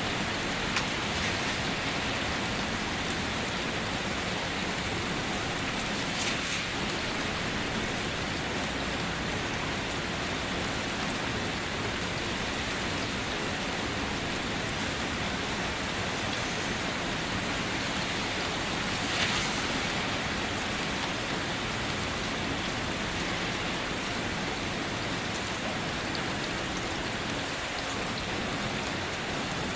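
Steady rain falling and pattering on surfaces, with a few slightly louder splashes now and then.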